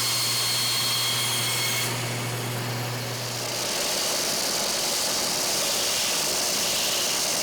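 Benchtop sander running with a steady hum, sanding the wooden body of a hand plane flush to its steel sole. The hum drops out a little over three and a half seconds in, leaving a steady hissing grind of the sanding.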